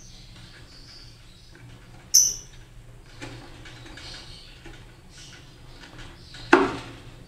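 Lovebirds chirping faintly, with one sharp high squeak about two seconds in and a single loud knock near the end.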